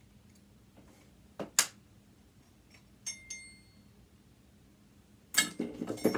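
Metal parts of a sewing machine being handled during disassembly: two sharp clicks about a second and a half in, a short ringing metallic clink about 3 s in, then a cluster of knocks and rattles near the end.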